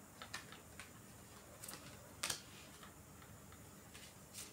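A few light, irregular clicks and taps over quiet room tone, the sharpest one a little past two seconds in.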